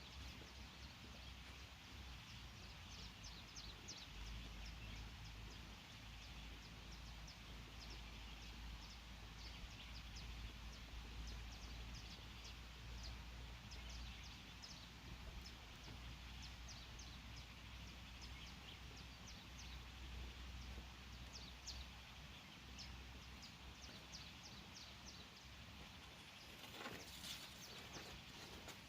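Faint outdoor forest ambience: high, short chirps repeat throughout over a steady low rumble, with a brief louder rustle near the end.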